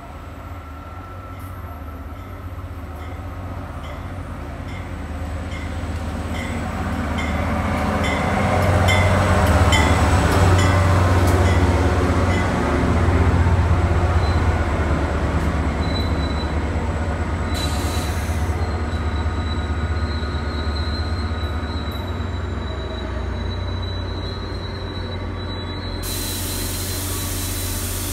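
NJ Transit GP40PH-2B diesel locomotive and its passenger coaches pulling into a station, a deep engine and wheel rumble that grows louder to a peak about ten seconds in as the train passes. As the coaches slow, a thin high brake squeal runs on. Near the end, as the train stops, a loud hiss of air starts.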